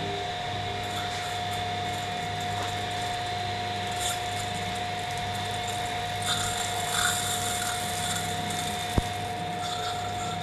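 A motor-driven machine running steadily with a constant high whine over a low hum, its pitch unchanging. A single sharp click about nine seconds in.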